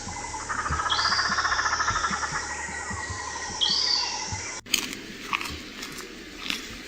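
Outdoor animal calls: a rapid trill with two short high chirps, followed by an abrupt cut about two-thirds of the way through to a quieter passage with faint clicks.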